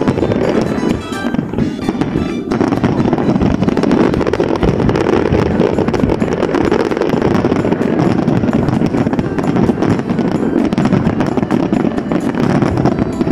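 Fireworks bursting and crackling in a steady loud barrage, mixed with music.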